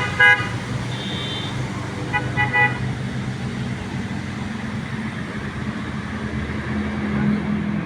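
Heavy truck engine running steadily, its pitch rising a little near the end. Short horn toots sound right at the start and a quick double toot about two seconds in.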